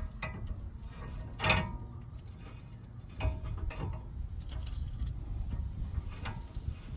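Metal tools clanking on the wheel-bearing hub and press tooling in a few separate knocks, the loudest about a second and a half in with a short metallic ring.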